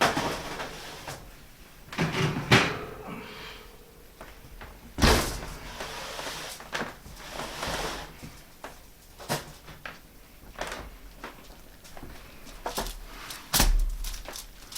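Oven door and baking dishes being handled as pot pies are taken out of the oven: a series of knocks and clatters, with a heavier bang near the end.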